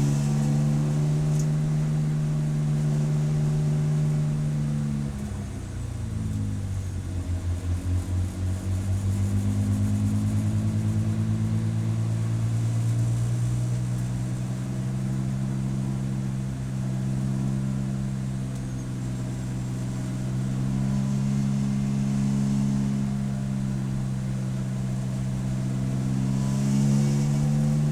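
Race car engine running hard on track. Its pitch drops sharply about five seconds in as the car slows, then climbs steadily through a long pull, dips slightly and rises again near the end.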